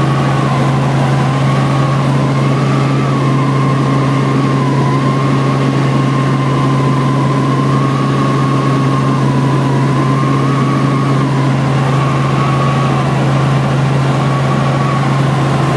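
Helicopter in flight heard from inside the cabin: a steady low drone with a higher whine that wavers slightly in pitch.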